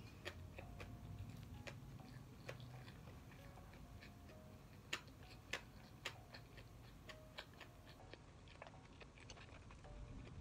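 A mouthful of food being chewed with the lips closed: soft, irregular wet clicks and smacks, with two sharper clicks about halfway through.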